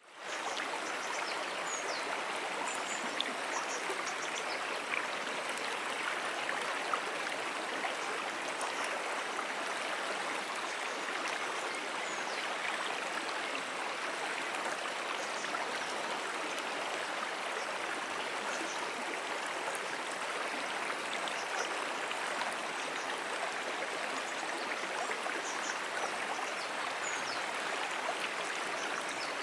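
Moonan Brook, a small freshwater stream, flowing: a steady, even rush of running water. Faint short high chirps come and go throughout.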